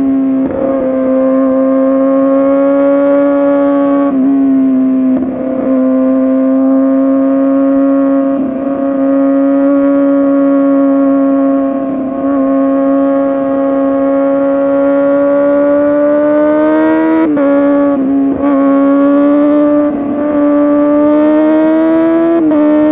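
Kawasaki ZX-6R 636 inline-four with an SC Project exhaust running hard at high revs, holding a fairly steady high pitch, broken every few seconds by short dips as the throttle is eased or a gear is changed.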